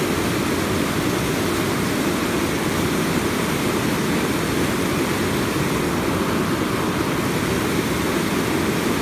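Steady rushing of a fast-flowing river swollen after heavy rain, an even unbroken noise.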